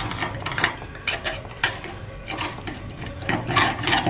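Irregular metallic scraping and clicking of a rod being worked through a mud-plugged ball valve on a steam boiler's skim port, clearing out the sludge that had blocked it.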